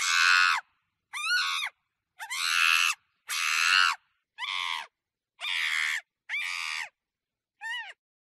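A monkey giving a series of about eight harsh screeching calls, each shorter than a second, with short gaps between them; some calls are raspy and others have a pitch that rises and falls.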